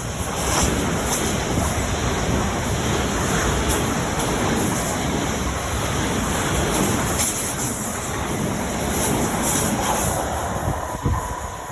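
Train in motion: a steady rushing rumble of wheels on rail and moving air.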